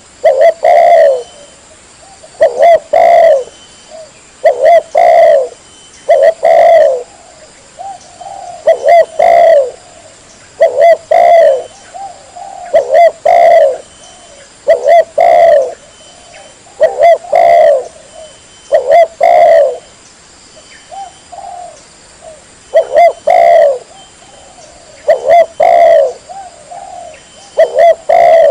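Spotted dove (tekukur) cooing loudly and clearly: short phrases of two or three coos, repeated about every two seconds with a brief gap between each.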